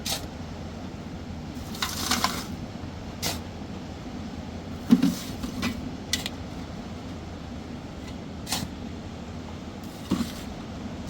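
Scattered short knocks and scrapes over a steady low background rumble. There is a scraping cluster about two seconds in, and the loudest is a thump about five seconds in.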